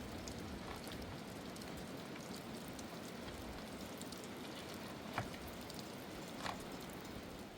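Steady rain falling, with two sharp ticks of heavier drops about five and six and a half seconds in.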